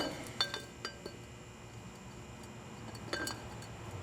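A few light metallic clicks and clinks, a handful early on and a short cluster near the end, as the cartridge oil filter cover is seated on the Farmall 140's filter housing, over a steady low hum.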